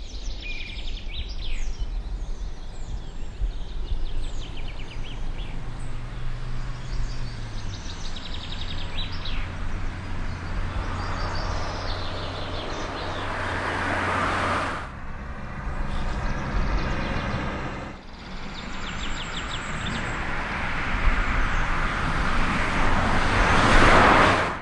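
Suzuki Jimny engine running steadily as the small 4x4 drives, its pitch dropping about a quarter of the way in. Birds chirp over it. The engine and tyre noise swells twice as the vehicle comes close, the second time loudest, then cuts off sharply at the end.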